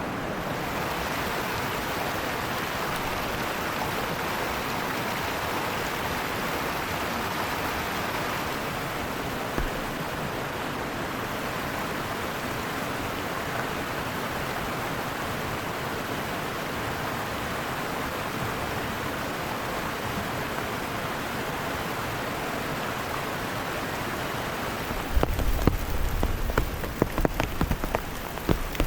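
Heavy rain falling steadily. About 25 seconds in, it turns into loud, close drops hitting a surface, with low thuds.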